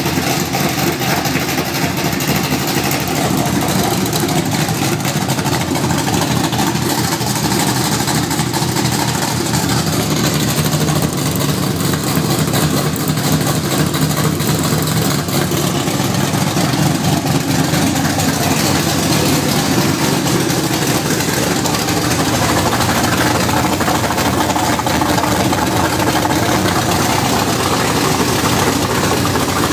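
1970 Dodge Dart's 360 cubic-inch small-block V8, fitted with a Hughes cam and Doug's headers, running steadily near idle during its first start-up after the build.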